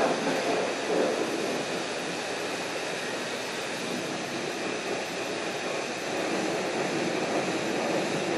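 High-pressure spray wand at a self-service car wash blasting water onto a truck: a steady rushing hiss of spray, swelling and easing a little as the jet moves over the body.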